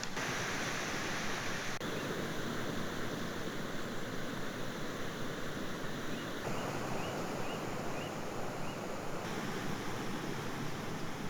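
Steady rushing outdoor noise, like flowing water or wind, whose character changes abruptly a few times. A few faint, short high chirps sound near the middle.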